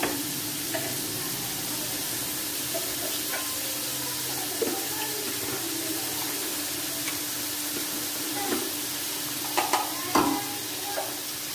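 Diced chicken and garlic-ginger paste frying in hot oil in an aluminium pot: a steady sizzle. A few short clicks sound over it, one about halfway through and a small cluster near the end.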